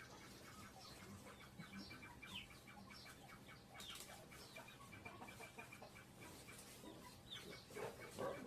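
Faint clucking of chickens with short chirping calls, over a soft rapid ticking and a low steady hum.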